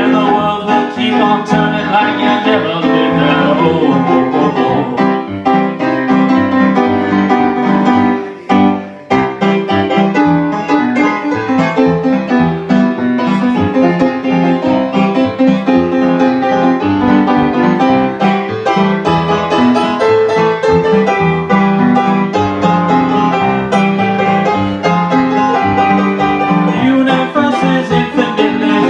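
Live instrumental music, played on a piano-like keyboard, with a brief drop in level about eight seconds in.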